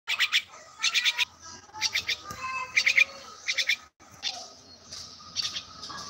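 Bird chirping in quick clusters of three or four short high notes, repeated about once a second. The sound cuts out abruptly for a moment about two-thirds of the way through, then the chirping resumes.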